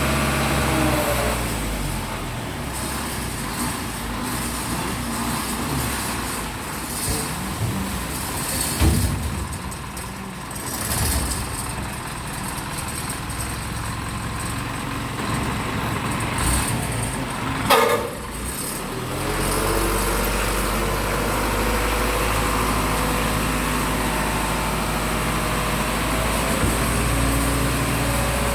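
Dump truck engine running while it tips its load. There are a few knocks in the middle and a short high squeal about two-thirds through, then the engine runs on steadily.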